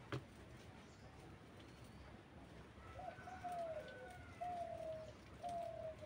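Three drawn-out, slightly falling low bird calls, one after another in the second half, after a short sharp click just at the start.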